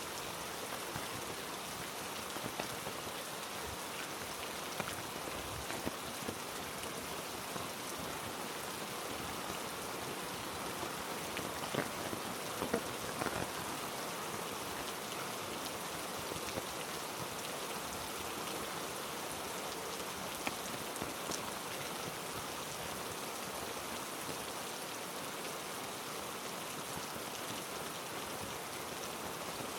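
Heavy rain falling steadily on rainforest foliage, an even hiss with scattered sharper drip-like taps. A few louder taps come a little before the middle.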